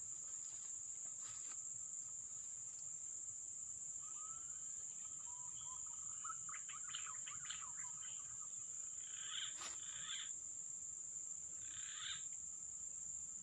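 Steady high-pitched insect drone, with a run of short bird chirps in the middle and a few more calls later. A single sharp click sounds about ten seconds in.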